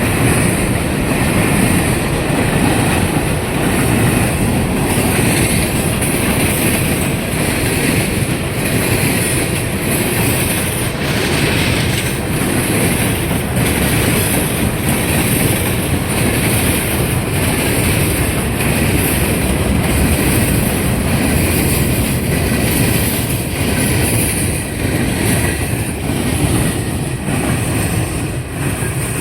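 Fast CSX freight train of autorack cars passing close by, its wheels clattering and pounding in a steady run of repeated knocks as they cross the rail diamonds. The sound falls away abruptly at the very end.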